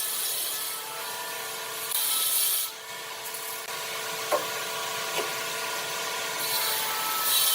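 Electric power tool working wood: a steady motor hum under a rasping, abrasive noise that swells about two seconds in and again near the end, with two short knocks midway.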